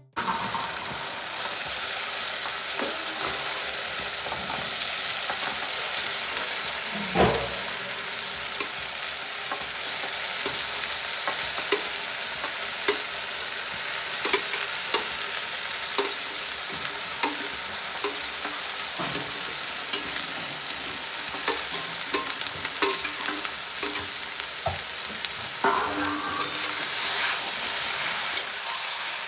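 Chicken pieces and red masala sizzling steadily in hot oil in a steel kadai, with frequent sharp taps and scrapes of a metal spatula stirring against the pan.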